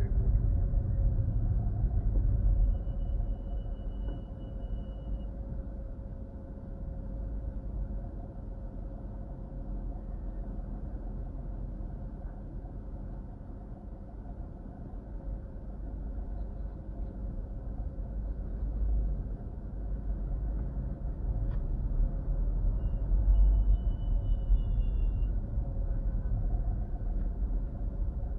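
Car driving, heard from inside the cabin: a steady low rumble of engine and road noise that eases off near the middle and grows louder again about twenty seconds in.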